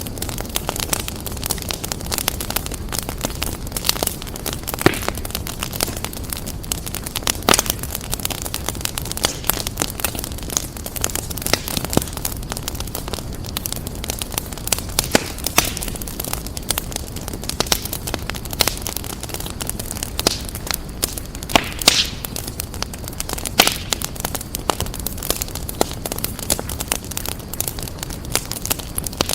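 Wood fire crackling and popping, with irregular sharp pops over a steady low rush of the flames.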